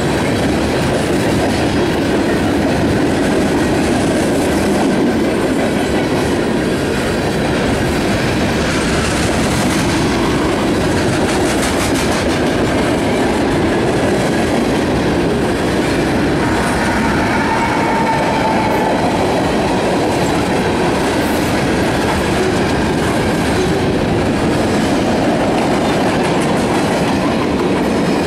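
Freight cars of a passing mixed train (tank cars, gondolas and a lumber-loaded centerbeam flatcar) rolling by close at hand: a steady, loud noise of steel wheels running on the rails.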